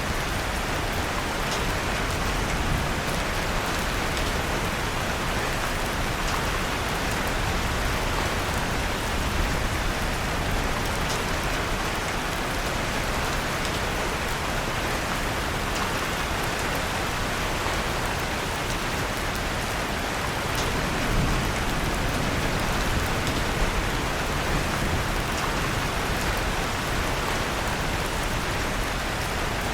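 Steady rain and fireplace ambience: an even rush of rain, with a few faint crackles and pops of a wood fire scattered through it.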